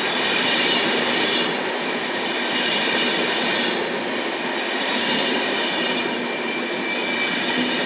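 Passenger train coaches rolling past close by at speed: a steady rush of wheels on rails that rises and falls gently as the coaches go by.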